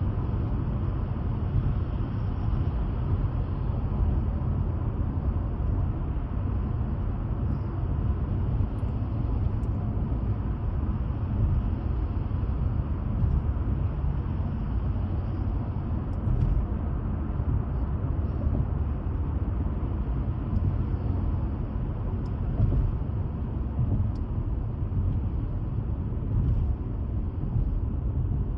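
Steady low rumbling noise with no clear pitch, unchanging throughout.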